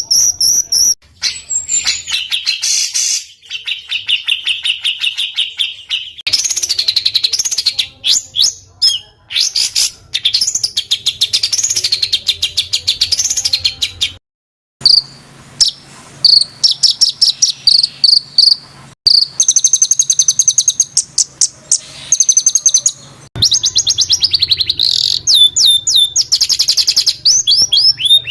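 Small songbirds singing rapid, harsh trills and strings of sharp repeated notes, the tight rough 'roll' and 'shot' phrases of a masteran recording used to tutor cage songbirds. The song is cut between clips, with a short silent gap about 14 seconds in.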